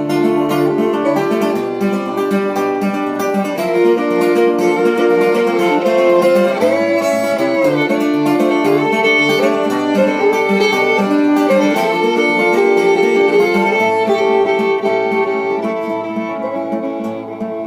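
Instrumental break of a country-style band song: a fiddle playing the lead with bends in pitch over strummed acoustic guitar, with a plucked string instrument such as banjo.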